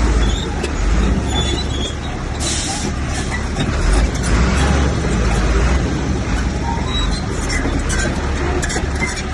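Heavy diesel earthmoving machinery running steadily with a deep rumble, with scattered metallic clanks and rattles.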